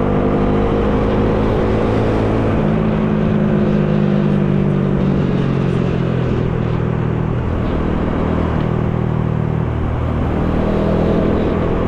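Bajaj Dominar 400 single-cylinder engine running while riding, with wind noise. The engine note eases gradually lower through the first half and climbs again near the end.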